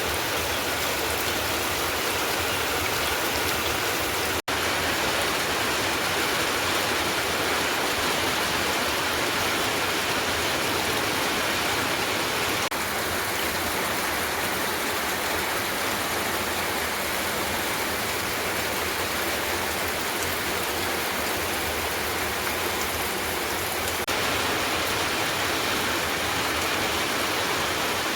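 Heavy rain falling steadily, a dense even hiss, with a momentary break about four seconds in.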